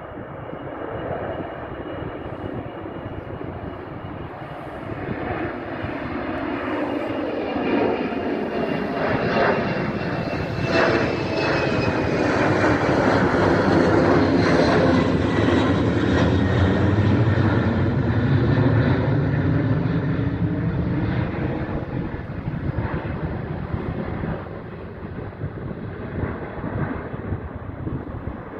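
Embraer regional jet's turbofan engines passing by: the engine sound builds to a peak around the middle, and a high whine drops in pitch as the jet goes past, then the sound fades away.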